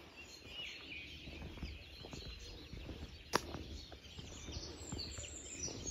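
Faint chirping of small birds, with a single sharp click about three and a half seconds in.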